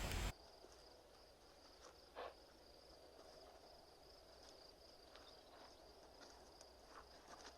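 Faint insect ambience: a steady high-pitched trill like crickets, with a few soft taps.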